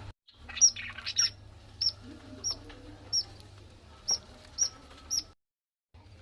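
Budgerigars chirping: a series of short, high chirps about every half second, with a busier burst of chatter about half a second in. The sound cuts out completely for a moment just after the start and again near the end.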